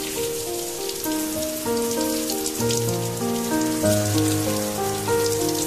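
Steady rain falling on wet concrete and puddles, over soft background music of slow, held notes. A low bass note comes in about two and a half seconds in.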